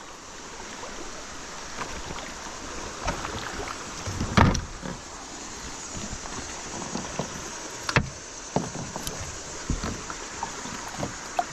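Knocks and bumps of handling in a plastic fishing kayak while a hooked fish is brought in, over a steady hiss. One knock about four and a half seconds in is the loudest, and another comes at about eight seconds.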